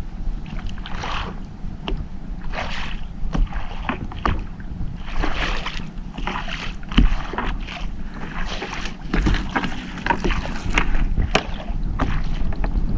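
A small fishing boat's engine runs steadily under irregular splashing and sharp knocks, as a crab gillnet is hauled and worked aboard.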